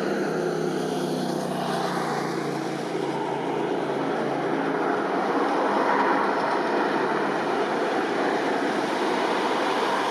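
Eurocopter AS350 Ecureuil helicopter running, a continuous turbine and rotor noise that swells slightly in loudness around the middle.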